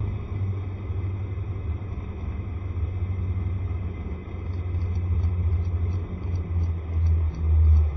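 Riding noise from a moving Honda SCR110 scooter: a heavy, gusting wind rumble on the microphone over road and engine noise, swelling louder near the end.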